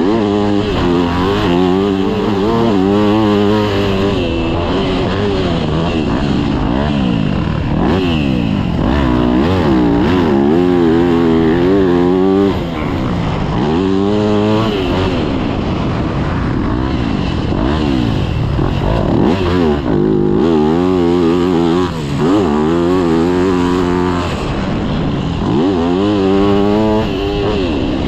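Yamaha YZ250F dirt bike's four-stroke single-cylinder engine being ridden hard, its pitch climbing again and again under throttle and dropping off between bursts.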